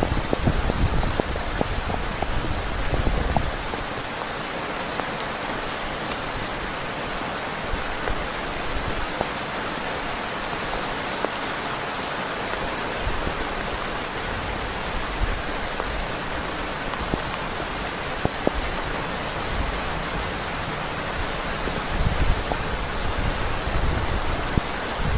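Heavy rain falling steadily, an even hiss dotted with sharp drop ticks. A low rumble runs under it for the first few seconds and comes back briefly near the end.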